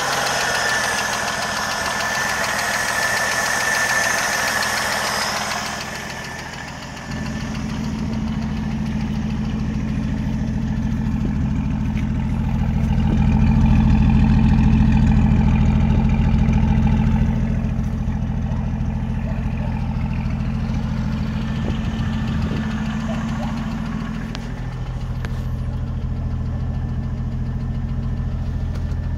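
1980 Jeep CJ7 engine running at idle with the ticking noise that is being chased. The engine picks up and gets louder for a few seconds in the middle. A brighter hiss sits over it in the first several seconds.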